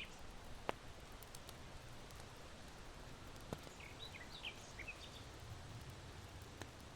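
Charcoal in an irori hearth crackling faintly, with two sharp pops, one under a second in and one about halfway, over a steady hiss of wind through bamboo. Small birds chirp briefly in a quick cluster just past the middle.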